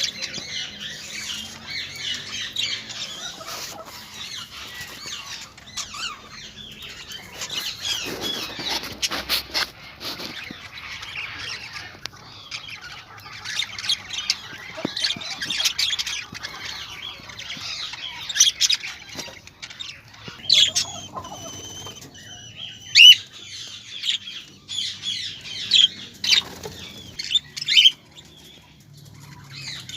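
Many small birds chirping and squawking together in a busy, overlapping chatter, with louder sharp calls in the second half and a burst of wing flutter about eight seconds in.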